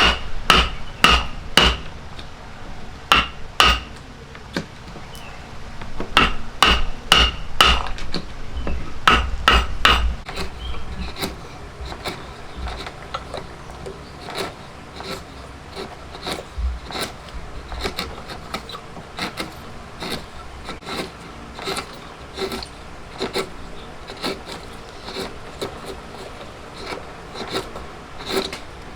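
Hand-tool woodworking: hammer blows in quick groups of two to five, each with a short ringing tone. About ten seconds in they give way to quieter, steady, evenly repeated light tool strokes on wood.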